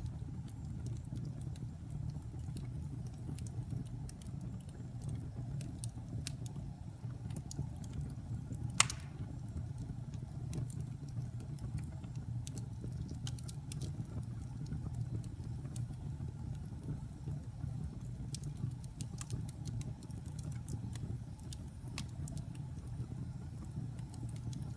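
Wood fire burning in a fireplace: a steady low rumble with scattered sharp crackles and one loud pop about nine seconds in.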